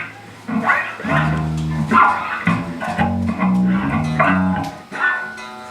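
Live bass guitar and guitar playing a string of held bass notes under chords, dropping to quieter guitar near the end.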